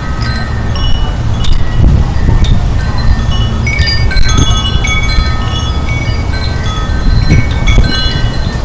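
Wind chimes ringing in strong wind: many short notes at different pitches, struck at random, over a steady low rumble of wind on the microphone.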